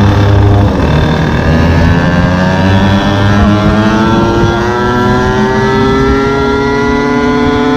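Small two-stroke engine of a gas-powered stand-up scooter running under load, its pitch climbing slowly and steadily as it gathers speed.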